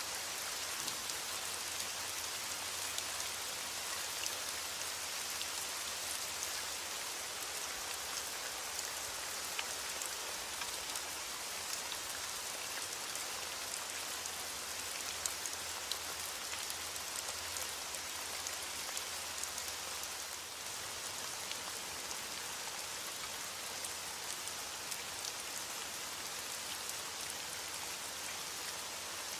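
Heavy rain falling steadily on a window: an even hiss scattered with many small drop ticks.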